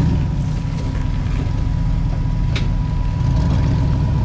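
Rock crawler's engine running low and steady as it crawls over rocks, with small mechanical clicks and creaks from the drivetrain and a single sharp knock about two and a half seconds in.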